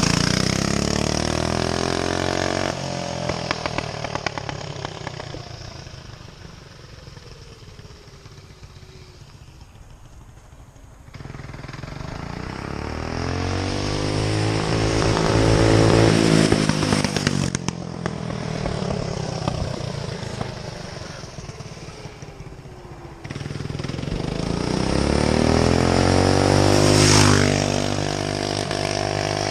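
Go-kart's Briggs & Stratton Animal single-cylinder four-stroke racing engine revving as the kart drives laps past. The engine note swells and falls away in pitch and loudness as the kart comes near and goes off, loudest at the start, about halfway through and near the end.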